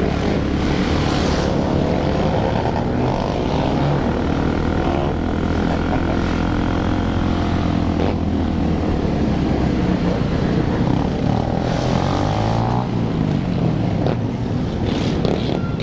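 Many motorcycle engines running together at close range, several revving so their pitch rises and falls over the steady din.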